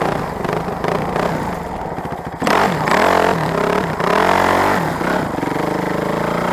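Motorcycle engine running at a steady pulse, then revved hard from about two and a half seconds in, its pitch rising and falling through several throttle blips.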